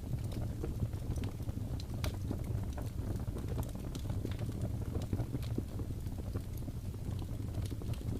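Log fire crackling in a fireplace: irregular snaps and pops of burning wood over a steady low rumble of the flames.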